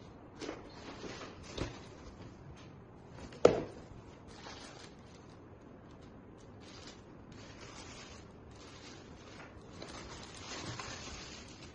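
Rustling and handling noises broken by a few short clicks and knocks, the sharpest knock about three and a half seconds in.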